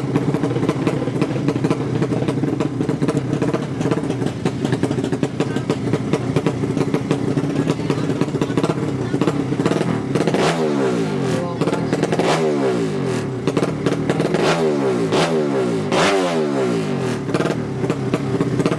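A 200cc horizontal-cylinder drag-racing motorcycle engine running loudly. In the second half its revs climb and fall four times in quick succession.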